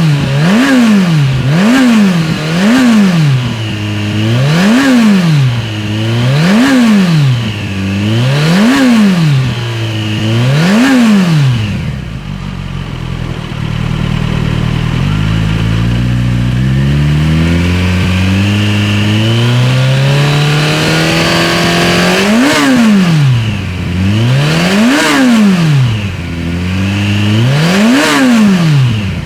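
Exhaust of a Kawasaki Ninja 1100SX inline-four through a TRICK STAR IKAZUCHI slip-on muffler, revved in a string of quick throttle blips that rise and fall sharply. About twelve seconds in it drops to idle, then the revs are slowly wound up for several seconds before three more sharp blips near the end.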